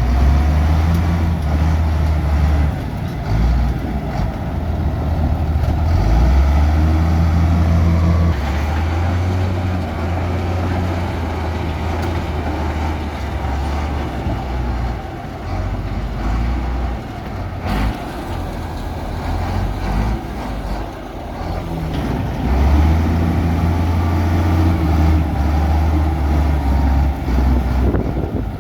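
Heavy earthmoving machine's diesel engine running under load, its low drone rising and easing several times. One sharp knock about eighteen seconds in.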